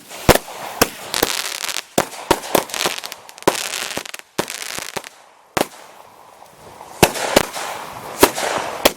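Consumer multi-shot fireworks cake firing: a rapid, irregular series of sharp bangs with hiss between shots, a short lull about four seconds in, then the shots pick up again.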